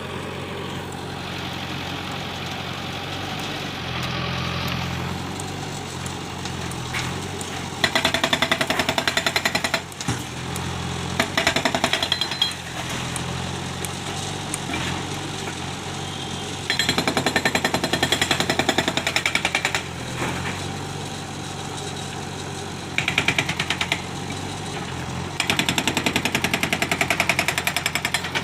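Heavy diesel machinery running steadily, broken by five spells of fast, jackhammer-like rattling, each lasting about one to three seconds, louder than the engine.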